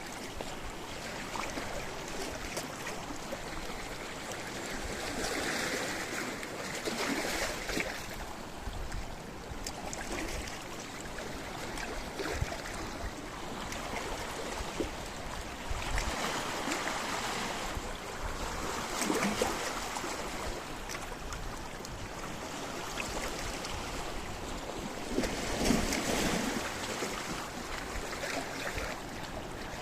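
Sea waves washing onto a rocky shore: a steady rush of surf that swells into louder surges about six, nineteen and twenty-six seconds in, then eases back.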